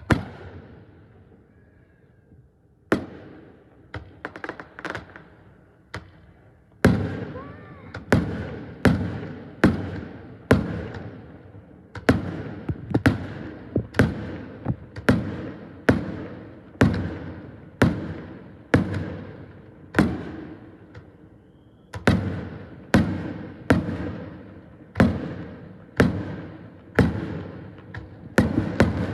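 Fireworks display: aerial shells bursting with sharp bangs, each trailing off in an echo. A few bangs are scattered at first, then from about a quarter of the way in they come steadily, about one a second.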